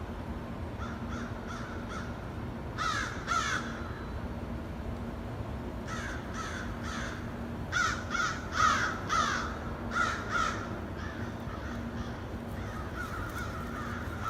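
A flock of crows cawing in short runs of harsh caws, several birds overlapping, in bursts about three seconds in, around six to seven seconds, and again from eight to ten seconds; calling that the observer takes as a sign they have found something to eat. A faint steady low hum runs underneath.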